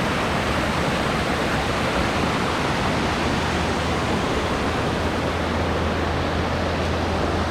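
Waterfall rushing steadily: a constant, even noise of falling water with a low rumble beneath it.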